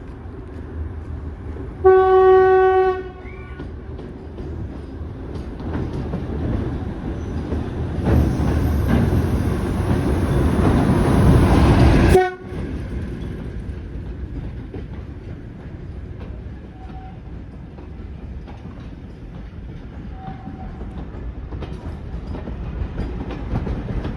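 Diesel locomotive horn giving one short blast, then a diesel-hauled train running past, its rumble building to a peak before cutting off abruptly about halfway through. A quieter train rumble carries on after that.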